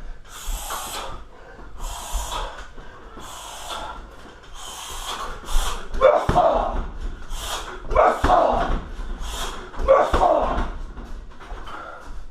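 Strikes landing on a 60 kg heavy bag, the three loudest about two seconds apart in the second half. Between them come short, sharp hissing exhales from the fighter, about one a second.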